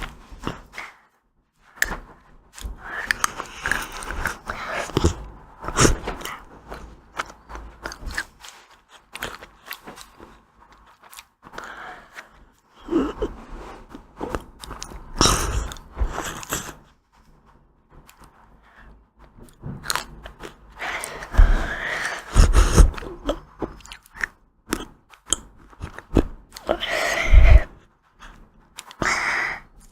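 Close-miked eating of ice cream: crunchy bites and chewing in bursts of a second or two, with short quiet pauses between.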